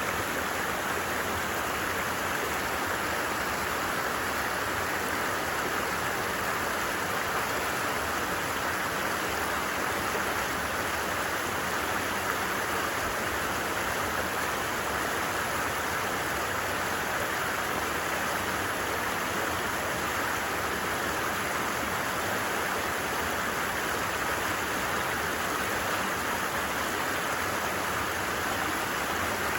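Stream water rushing steadily, a continuous even noise that never changes.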